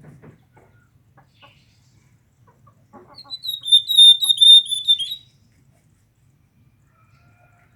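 A bird calling: a loud run of rapid, high-pitched chirps lasting about two seconds, starting about three seconds in.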